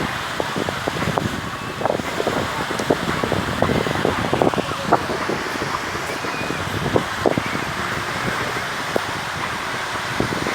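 Outdoor ambience with wind buffeting the microphone: a steady rushing noise broken by many short, irregular knocks and clicks.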